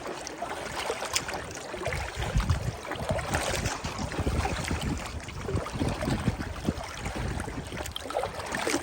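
River water splashing and lapping in small waves, a steady uneven rush, with wind buffeting the microphone in low gusts.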